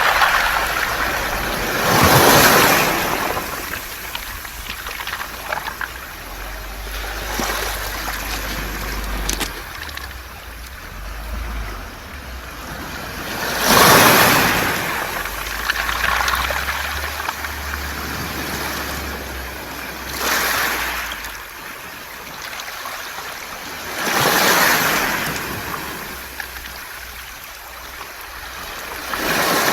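Waves washing up a beach of smooth round pebbles, each surge rising into a loud rush and hiss of rolling, rattling stones and then draining back. Five swells come at uneven intervals, with a steady wash between them.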